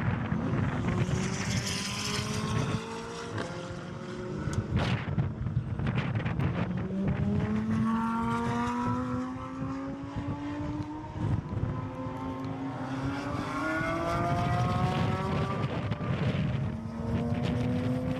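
Supercar engine accelerating on a track, its pitch climbing in long pulls and dropping at each upshift, about twice, with tyre and wind noise underneath.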